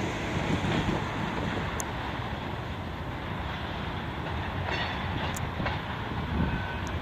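A train rolling past: steady noise of railcar wheels on the track, with a few faint sharp ticks.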